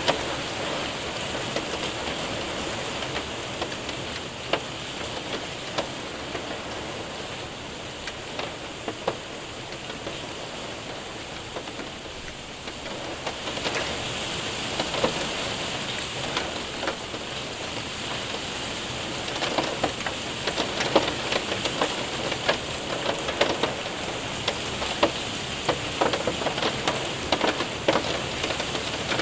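Rain and hail striking a window and roof: a steady hiss of rain with many sharp ticks of hailstones, which come thicker in the last third.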